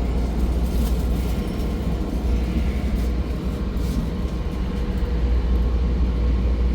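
Train running, a steady low rumble with no sudden events.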